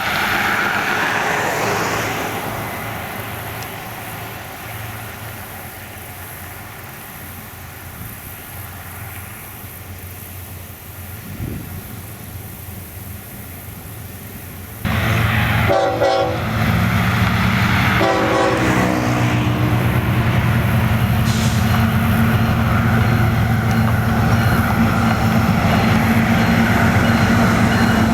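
A train with diesel locomotives, on the BNSF line, passes close by. The horn sounds in short blasts around the middle. Then comes a steady, loud low rumble of locomotive engines and rolling cars.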